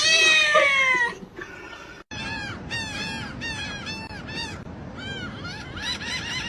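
A cat's long, loud meow sliding down in pitch, then, after a brief pause, a quick run of short, high calls, several a second.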